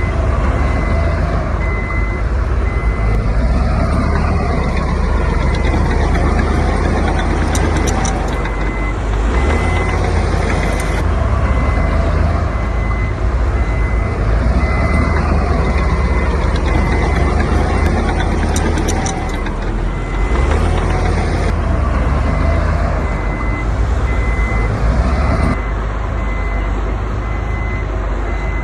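Heavy diesel machinery running steadily under load, with a backup alarm beeping at a regular pace, the sign of a machine reversing.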